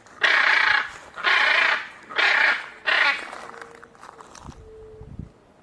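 Macaw squawking: four loud, harsh calls about a second apart, then quieter.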